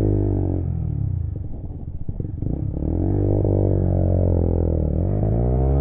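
A Lexmoto Assault 125cc motorcycle's single-cylinder four-stroke engine is accelerating under the rider. Its pitch rises, dips at a gear change about a second in, then climbs steadily for a few seconds and drops near the end.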